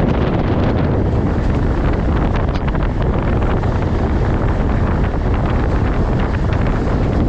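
Steady rush of wind and low running rumble from a passenger train moving at speed.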